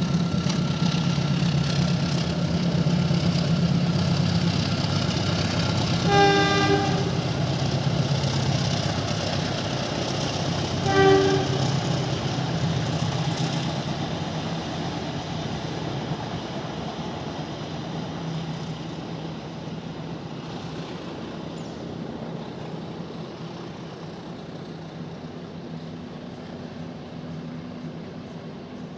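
Train passing with a steady rumble, its horn sounding twice, about six and eleven seconds in. The rumble slowly fades as the train moves away.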